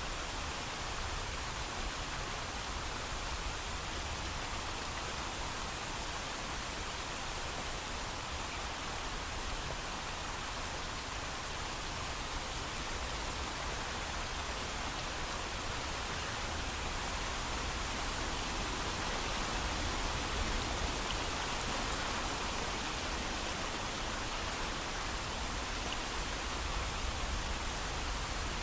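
Steady heavy rain, a continuous even hiss with no thunder.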